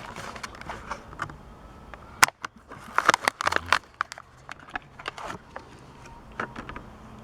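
Plastic blister pack and cardboard backing of a carded toy car crackling and scraping in the hands as it is handled for opening. The crackles are irregular, with a sharp snap about two seconds in and a busy cluster a second later.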